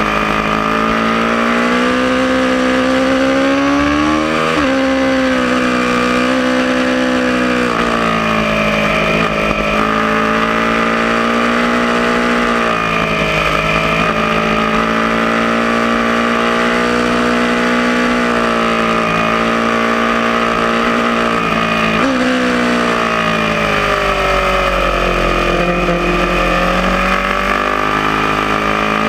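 Aprilia Tuono motorcycle engine running hard under acceleration, its pitch climbing and dropping abruptly at gear changes and sagging under deceleration, over steady wind rush.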